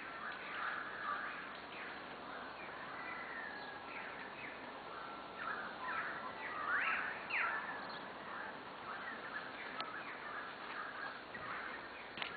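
Several wild birds singing and calling together: a busy mix of short chirps and brief whistled notes, loudest about two thirds of the way through.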